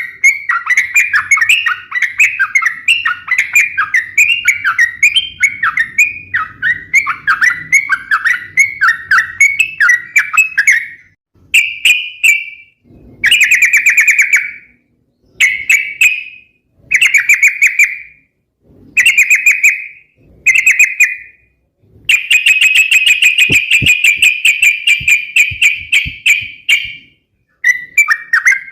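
Yellow-vented bulbul (trucukan) singing in full, lively song: fast, bubbling chattering phrases, running unbroken at first, then coming as separate phrases with short gaps, and running on again in a long stretch before a brief pause near the end.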